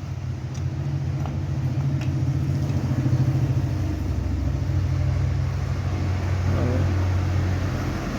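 Steady low rumble of a running engine, swelling slightly about two to three seconds in.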